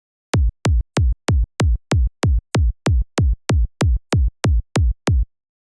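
Synthesized electronic kick drum from the Kick 2 plugin, looped alone at about three hits a second, about fifteen identical hits. Each hit is a short click with a deep body that drops quickly in pitch, typical of a synth kick.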